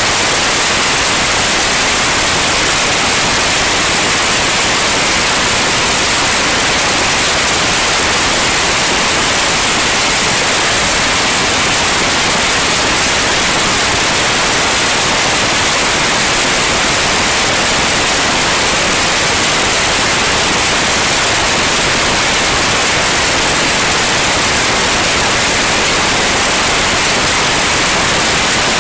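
Loud, steady static-like hiss that does not change, with no distinct tones or separate sounds in it.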